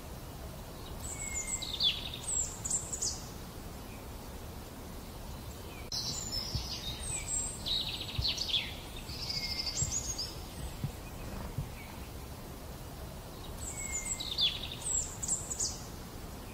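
A songbird singing in three separate bursts of quick high notes, each opening with a short low note, the middle burst the longest. Under the song runs a steady low background noise.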